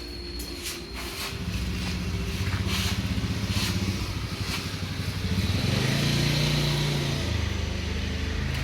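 A motor engine running with a steady hum, rising in pitch and getting louder about five seconds in, then easing off. A few sharp knocks come in the first second.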